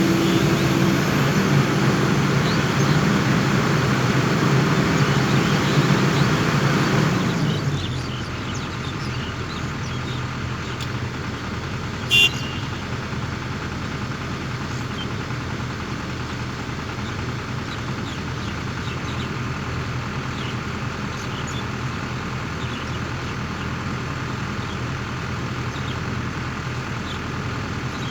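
Heavy diesel machine engine, loud for the first seven seconds or so, then dropping to a quieter steady run, with one short high-pitched toot about twelve seconds in.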